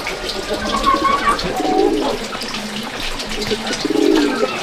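Birds calling: short whistled calls, then two low pulsing calls about two seconds apart.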